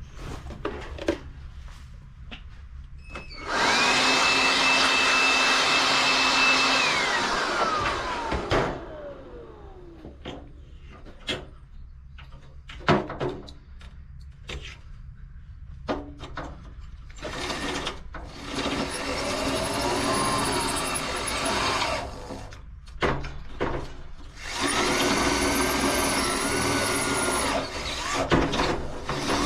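Handheld electric power tool run in three bursts of a few seconds each, the motor whine falling in pitch as it runs down after each release, with clicks and knocks of metalwork in between, during reinforcement of a steel plate stay.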